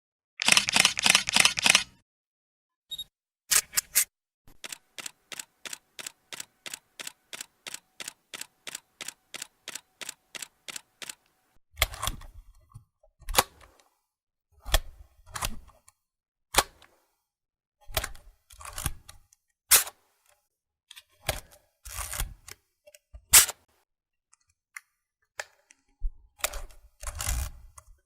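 Camera shutter sound effects played in sequence. A fast burst of shutter clicks comes first, then a long even run of about four shutter clicks a second, like a motor-driven continuous shot. After that come single and paired shutter clicks, several with a heavier low thud.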